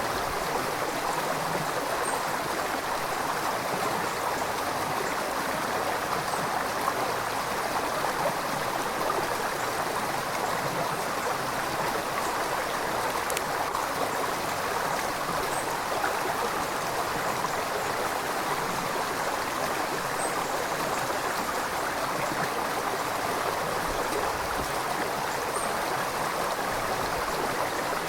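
River water flowing steadily, an even, continuous rush.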